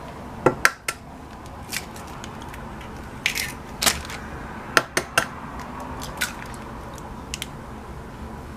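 Kitchen handling noises: scattered light clicks and knocks of bowls, utensils and containers being picked up and set down while a batter is being made.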